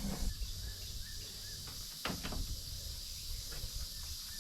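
Steady high drone of insects, with a low rumble underneath and a single sharp knock about two seconds in.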